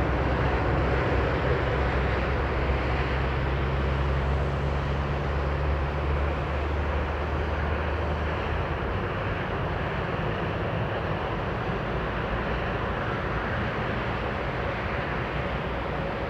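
Jet airliner passing on its landing approach: a broad, steady roar with a low engine hum that drops away about seven seconds in, the whole sound slowly fading.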